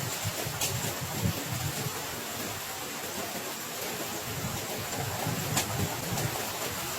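Heavy rain falling steadily, with an irregular low rumble underneath and two sharp ticks, one under a second in and one near the end.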